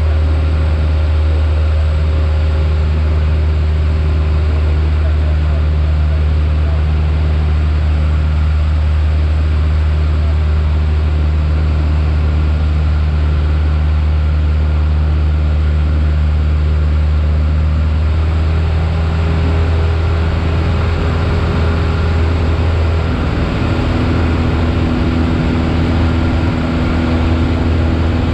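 Piper Warrior's four-cylinder Lycoming engine and propeller droning steadily in cruise, heard inside the cabin. The engine note shifts once about two-thirds of the way through and again shortly after, as the power setting changes.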